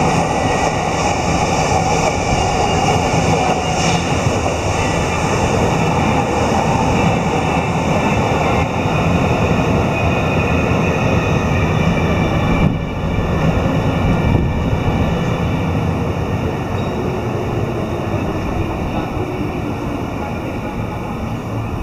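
Electric commuter trains passing on a multi-track railway: a steady noise of wheels running on rails, with a whine that fades out about four seconds in.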